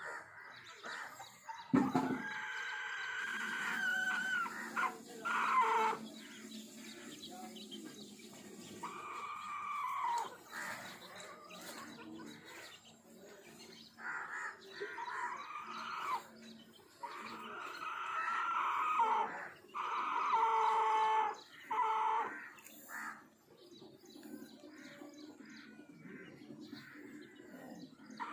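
Aseel roosters crowing repeatedly, about half a dozen drawn-out crows one after another, most dropping in pitch at the end. A short knock comes about two seconds in.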